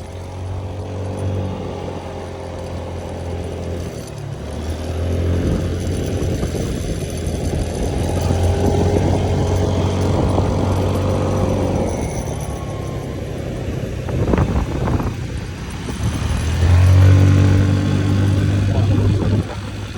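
Moped engine running while riding, its note rising and falling as the throttle opens and closes, with a rush of wind noise. It gets louder for a few seconds near the end.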